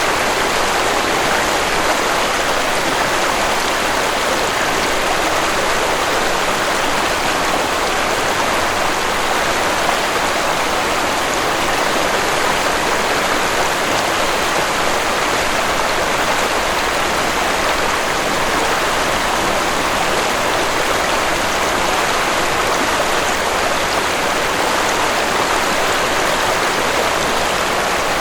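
Waterfall water rushing steadily, an even, unbroken splashing noise.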